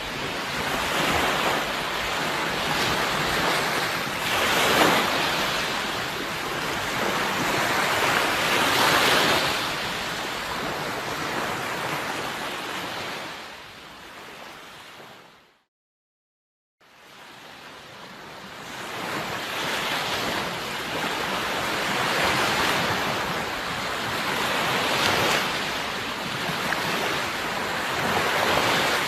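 Sea waves washing and surging, swelling every few seconds. About halfway through the sound fades out to a brief silence, then fades back in.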